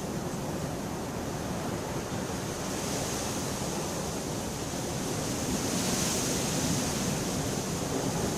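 Steady heavy rain, a dense even hiss that swells a little in the middle and eases again.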